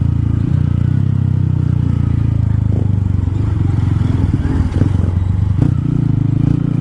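Single-cylinder motorcycle engine running steadily under way, with the engine note holding at a near-constant pitch.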